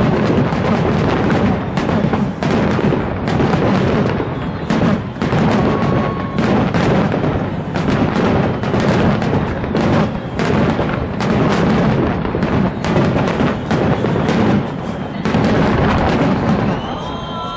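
Fireworks display going off in a dense barrage of rapid booms and bangs, many bursts overlapping with little pause; the barrage eases slightly near the end.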